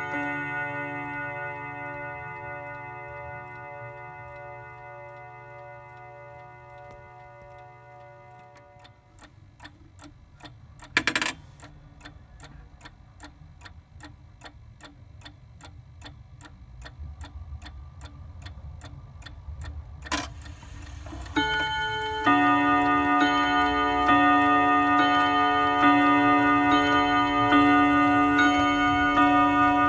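Mantel clock with a bim-bam strike: chime tones fade away, then the clock ticks steadily. A short loud noise comes twice in the middle, and about three-quarters of the way through the bim-bam strikes start again and ring repeatedly.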